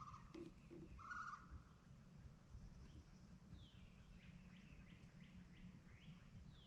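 Faint wild birdsong: two short calls near the start and about a second in, then a run of quick, falling whistled notes from a songbird, over a steady low outdoor rumble.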